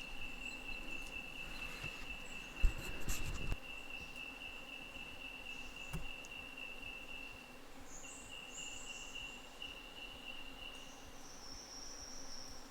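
Insects calling in rainforest: one holds a steady, unbroken high-pitched trill that stops about 11 seconds in, while a second, higher-pitched insect calls near the end. A brief rustle or handling noise about 3 seconds in.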